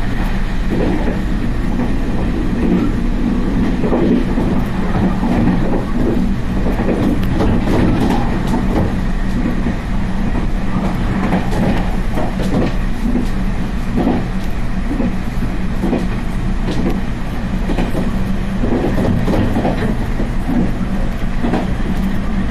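Passenger train running along the line, heard from on board: a steady rumble with irregular clacks of the wheels over rail joints.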